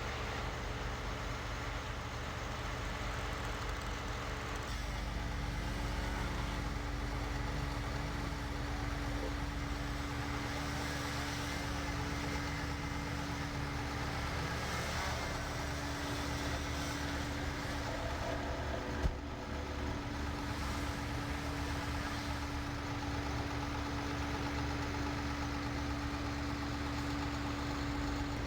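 Engine of heavy equipment idling steadily, with one sharp knock about two-thirds of the way through.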